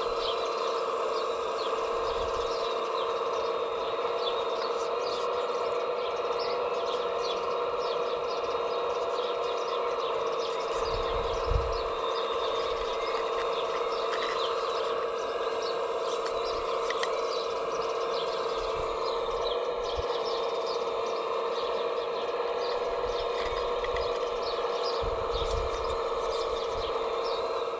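Steady electric whine of an RC construction model's motor and hydraulic pump running, holding one pitch throughout, with a couple of low knocks. Birds chirp over it.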